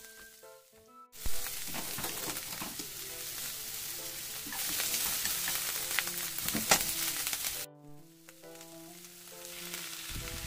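Onions frying in oil in a nonstick frying pan, a steady sizzle that starts suddenly about a second in and grows louder midway, with a sharp knock near the loudest point. The sizzle cuts off about three-quarters through, leaving plinking background music with a fainter sizzle.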